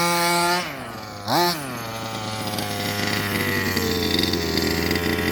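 Two-stroke CY gas engine of a Rovan Baja RC buggy revving: held at high revs, dropping back about half a second in, one quick throttle blip around a second and a half in, then idling steadily.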